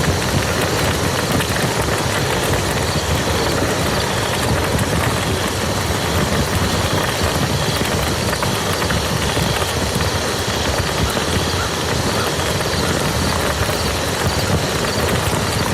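Steady rain falling on a muddy field, a dense, even patter of drops that doesn't let up.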